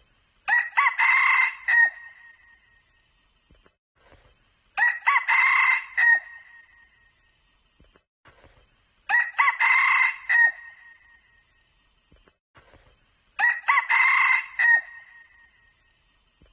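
Red junglefowl cock crowing four times, one short crow about every four seconds, with quiet between the crows.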